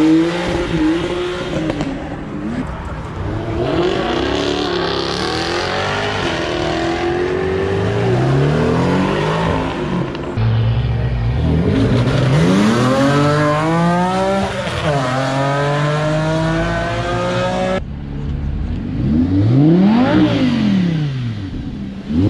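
Performance car engines revving and accelerating hard, their note climbing repeatedly as they pull away through the gears. Near the end a car passes close by, its engine note rising and then dropping as it goes past.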